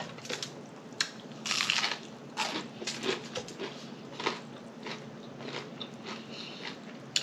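A person chewing and biting food close to the microphone: irregular crunches and wet mouth smacks.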